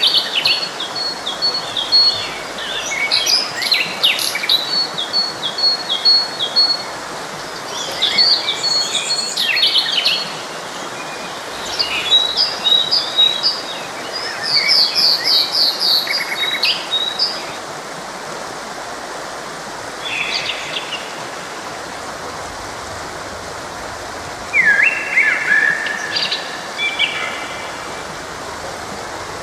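Several songbirds singing and chirping in quick, varied phrases over the steady rush of a forest stream. The song is busy through the first half, thins out, then picks up again near the end.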